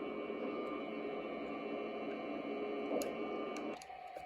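Steady hiss and hum of the Airbus A321 cabin's ventilation air with the engines shut down at the gate. It drops suddenly a little before the end.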